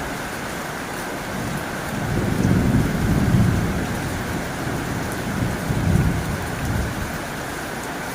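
Heavy rain drumming steadily on a tin roof. A low rumble of thunder swells about two seconds in, rises again briefly, and dies away near the end.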